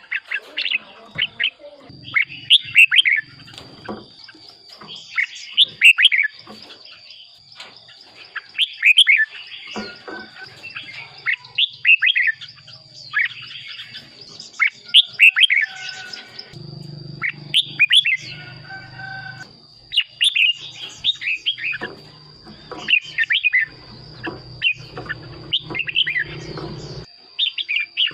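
Red-whiskered bulbul singing short, loud warbling phrases, repeated every one to three seconds, over a steady thin high-pitched whine and a low hum.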